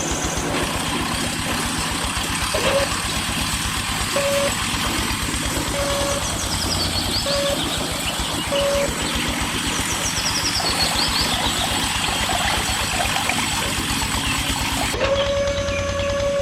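An engine running steadily, with short beeps of one pitch about every second and a half, a longer beep near the end, and a few quick high chirps.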